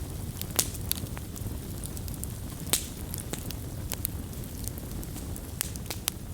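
Wood campfire crackling: a steady low rumble with scattered sharp pops and snaps, the loudest about three seconds in.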